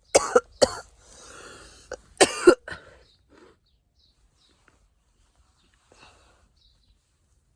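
A person coughing in two bouts: a couple of harsh coughs right at the start, a drawn breath, then another loud burst of coughs a little after two seconds in.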